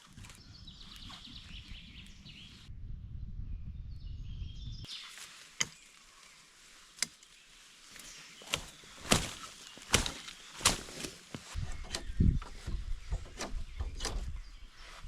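A string of sharp, irregular knocks and cracks, starting about five seconds in and coming faster and louder toward the end, over outdoor ambience with a few faint bird chirps early on.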